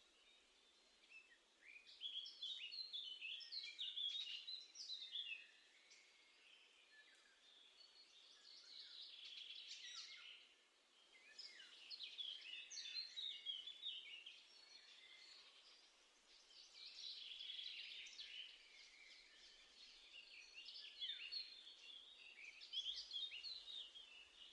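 Songbirds singing faintly, repeated phrases of quick twittering notes, each phrase lasting a few seconds with short pauses between them.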